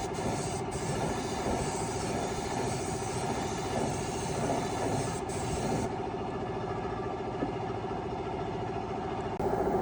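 A motor running steadily, with a constant hum under a rough, rumbling noise.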